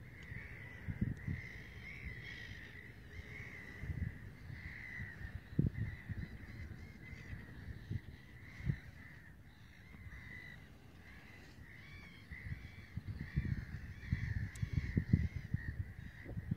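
Birds calling over and over, short high calls about once or twice a second without a break. Beneath them are low gusty rumbles and thumps, heaviest near the end.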